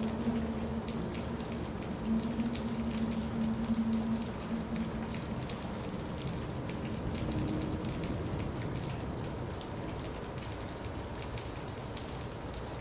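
Steady rain falling on a surface: an even hiss with many small drop ticks. A low steady tone sounds alongside it for the first few seconds, then fades.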